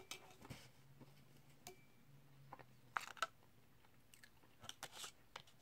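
Quiet close-up chewing of soft, sauce-covered animal-style fries: a scatter of short, wet mouth clicks and smacks, the loudest about three seconds in and again around five seconds.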